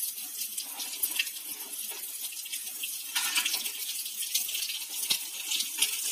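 Hot sesame oil sizzling steadily with scattered crackles as raw mango cubes fry in a kadai with spluttered mustard seeds and curry leaves.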